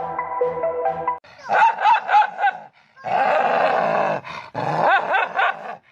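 Background music for about the first second, then a dog barking and yipping in a series of short calls with a rougher, longer stretch in the middle.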